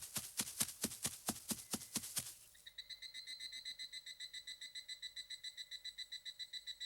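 Sharp, regular clicks about four a second stop a little after 2 s. A fast, even insect trill with a thin, high, buzzing tone then takes over, pulsing about eight times a second.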